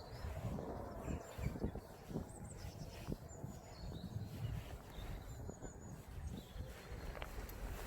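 Outdoor ambience: a few short, high bird chirps over a low rumble, with irregular soft thuds such as footsteps.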